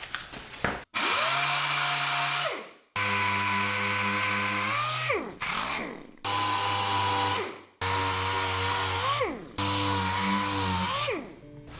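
An electric power tool's motor running in short bursts of one to two seconds, steady while the trigger is held and winding down in pitch as it is let go. The bursts follow one another with sudden breaks between them.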